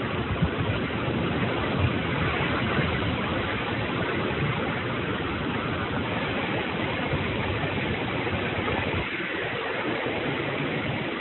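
Steady rushing roar of storm wind and rain, with no clear breaks.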